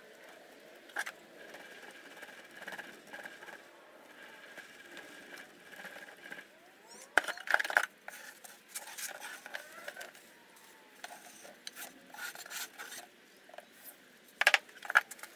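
Intermittent clinks, taps and light scrapes of small hard objects being handled, with a loud cluster of clicks about seven seconds in and another near the end.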